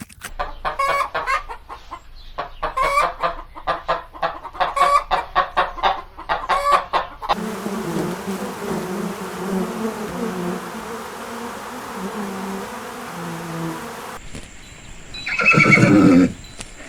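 Chicken clucking in rapid runs of short notes for the first several seconds. Then a lower, steadier animal sound, and near the end one loud call about a second long.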